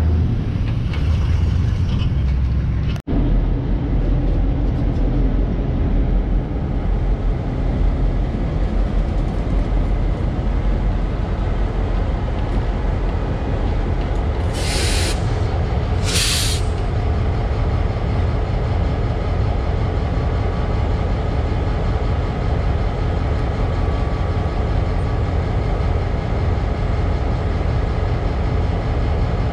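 Diesel locomotive rumbling steadily, with two short hisses of air about halfway through, a second and a half apart.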